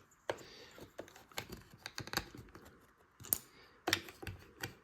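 Small LEGO plastic parts being handled and pulled apart: a scatter of light, irregular clicks, with a few sharper ones in the second half.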